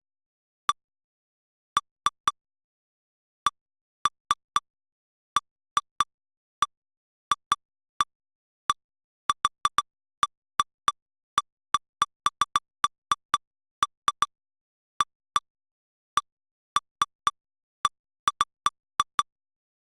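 Short, identical electronic pips, each a brief tone near 1 kHz with higher overtones, coming at irregular intervals, sometimes in quick pairs or clusters, over silence: synthetic alert sounds from lightning-detector software replaying its log, each pip marking a detected strike.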